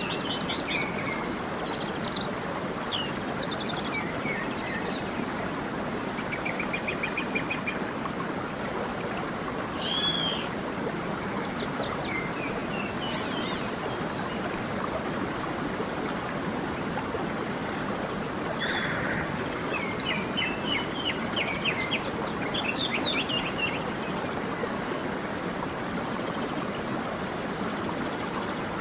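A stream running steadily, with songbirds calling over it in bouts of chirps and trills: near the start, around the middle, and again a little past the middle.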